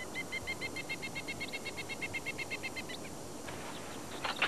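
A bird's rapid trill: a string of identical high chirps, about eight a second, lasting nearly three seconds. Near the end, a couple of sharp clicks from a metal gate latch on a chain-link fence being handled.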